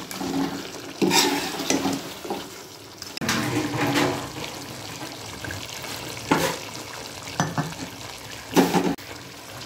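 Chicken feet in masala sizzling in a pot on a low flame while a metal spoon stirs them, scraping the pan in several separate strokes over the steady frying.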